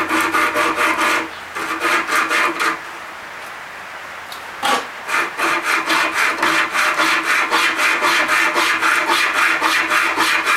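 Hand rasp working a clamped block of dense hardwood: quick back-and-forth strokes, about three or four a second, stopping for a couple of seconds about three seconds in and then going on steadily.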